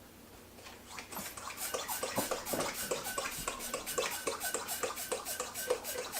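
Latex twisting balloons squeaking and rubbing as they are bent and twisted by hand: a fast run of short squeaks and rubbery creaks that starts about a second in and keeps going.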